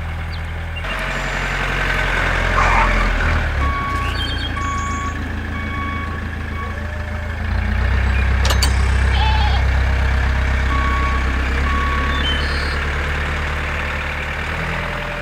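A vehicle engine running steadily, rising in level about halfway through. A reversing alarm beeps about once a second in two short runs.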